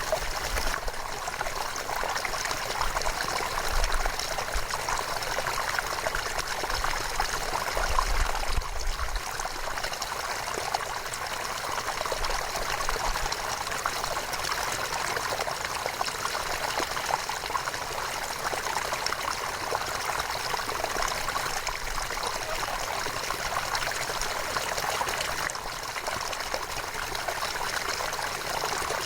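River flowing steadily, an even rush of running water with a babbling, trickling edge.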